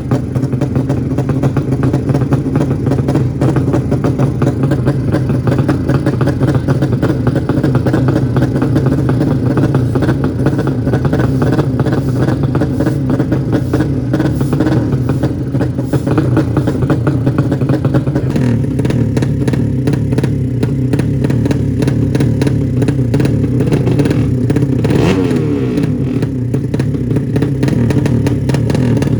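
A 200 cc drag-bike engine running loud and steady at a held speed, with a brief wavering of revs about three-quarters of the way through.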